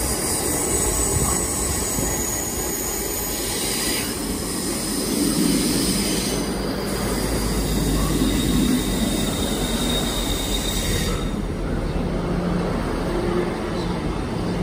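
GWR diesel multiple unit running into the platform, its wheels squealing with a high-pitched whine over the low diesel rumble. The squeal cuts off about eleven seconds in while the rumble goes on.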